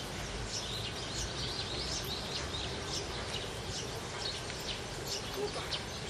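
Many small birds chirping, a dense run of short, high calls over a steady background hiss of ambient noise.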